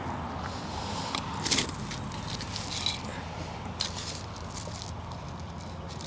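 Hand weeding in dry soil: short crackling and scraping noises as weeds are pulled and plant matter is handled, coming in irregular clusters, with a few sharper crackles in the first half.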